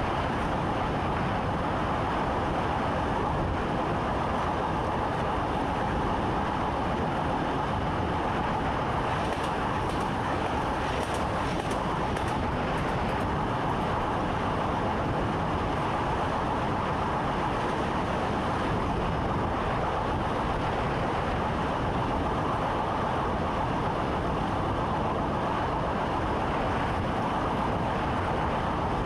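Electric commuter train running steadily, heard from inside the driver's cab: an even rolling rumble and hum with a few faint high ticks partway through.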